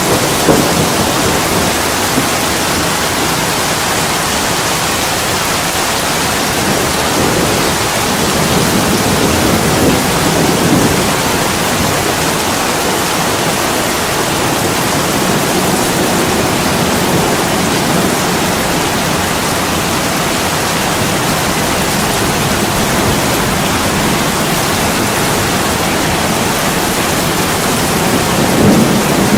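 Steady heavy rain, a dense even hiss. Near the end a low rumble of thunder begins to build.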